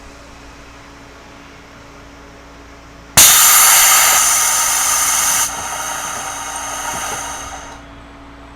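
Sudden loud hiss of compressed air being released from a Series 211-5000 electric train's air system. It steps down after about two seconds and fades away near the end, over a steady low hum from the car's electrical equipment.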